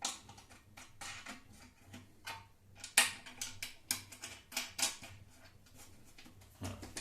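A series of sharp clicks and knocks from router table parts being handled and fitted together by hand, with the loudest knock about three seconds in.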